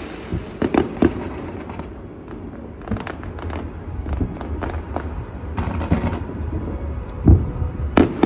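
Aerial fireworks bursting at a distance: irregular sharp bangs and crackles over a low rumble, with a deep boom about seven seconds in and a sharp bang just after it.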